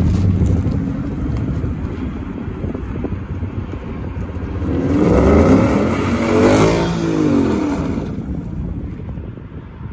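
Ford Mustang GT's 5.0 L Coyote V8 revving as the car pulls away and swings into a turn, the engine note climbing and falling in pitch and loudest around the middle, then fading near the end.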